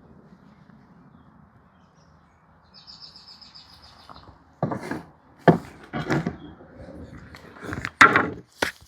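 A bird chirps a quick run of high notes, then cut wooden boards knock and clatter loudly several times as they are handled and stacked.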